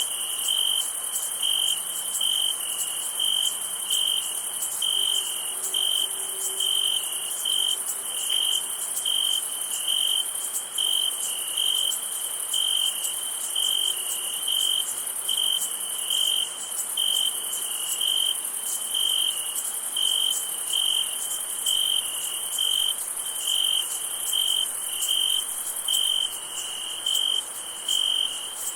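Crickets chirping in a steady, even rhythm, a little over one chirp a second, over a continuous high-pitched insect hum of a summer night chorus.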